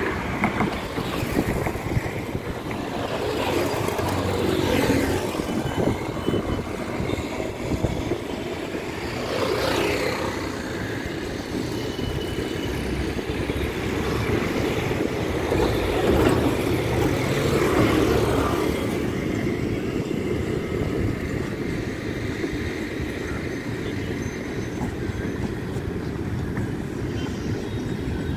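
Electric multiple-unit suburban train rolling past, a continuous rumble of wheels on rail that swells and eases several times.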